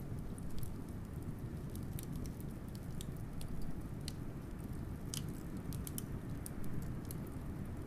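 Wood fire crackling, with irregular sharp pops and snaps, over a steady low rumble of blizzard wind.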